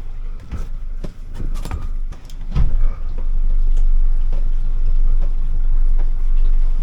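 Small cabin boat under way: a run of irregular knocks in the first three seconds, then a steady low rumble.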